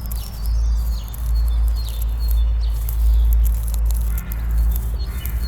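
Bush ambience: a steady low rumble of wind on the microphone, faint bird chirps, and scattered crackling rustles like dry leaves and twigs.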